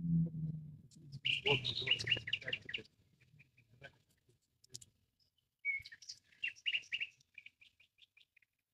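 Small songbirds chirping in two quick runs of repeated high notes, one about a second in and another near the end.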